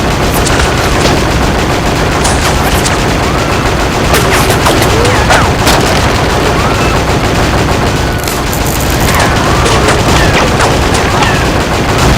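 ED-209 robot's arm-mounted guns firing in a long, continuous, loud burst of rapid gunfire, re-created as a film sound effect.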